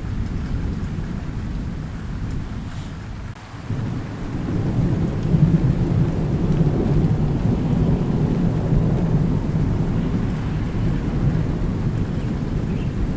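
Thunderstorm: steady rain with rolling thunder. A deep rumble swells about four seconds in and rolls on through the rest.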